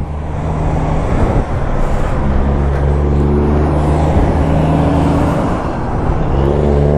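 Highway traffic noise with a steady engine hum, vehicles running past on the interstate.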